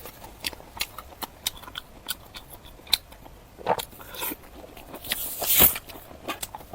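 Close-miked eating: crisp crunching bites and chewing, with scattered sharp crackles, and a longer, louder crunch about five seconds in.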